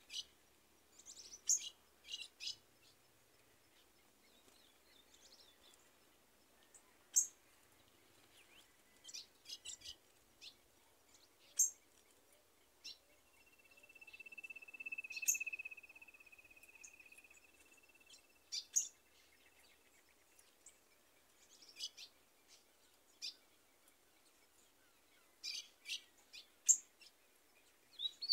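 Birds calling: scattered short, high chirps, and about halfway through one long, even trill at a steady pitch lasting about five seconds.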